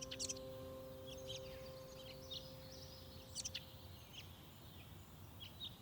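Small songbirds chirping in short, scattered high notes, with a few louder calls about three and a half seconds in.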